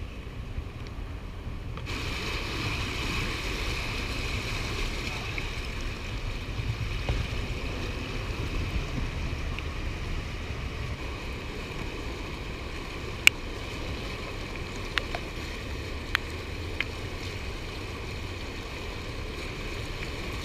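Wind buffeting the microphone over the steady rush of fast river water below a dam. A sharp click about 13 seconds in, and a few fainter clicks in the next few seconds.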